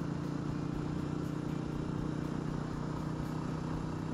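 Super Shadow 250 chopper motorcycle's engine running steadily at an even speed, with wind and road noise heard through the helmet camera's microphone.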